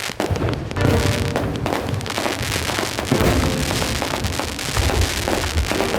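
Fireworks going off in a dense, continuous run of crackling bangs and pops, with music playing underneath.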